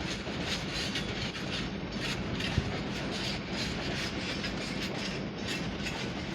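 Class 158 diesel multiple unit running into the platform, its wheels clattering over the rail joints, with one sharp knock about two and a half seconds in.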